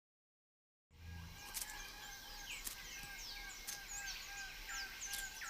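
Forest birds calling after a second of silence: short descending whistles from several birds, over a short note repeated about three times a second and a few sharp clicks.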